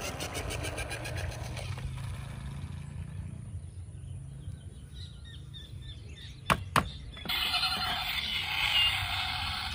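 Outdoor ambience with faint bird chirps, broken by two sharp clicks about six and a half seconds in, after which a steady rustling noise starts.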